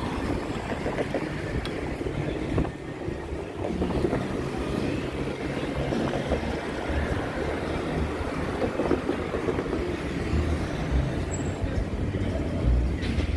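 Steady low rumble of vehicle traffic and wind noise on a moving microphone during a bicycle ride.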